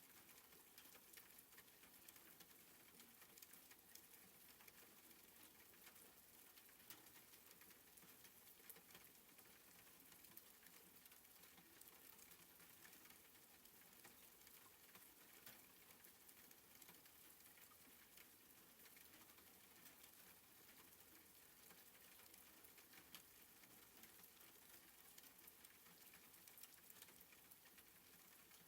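Faint, steady patter of soft rain, with many small scattered drop clicks.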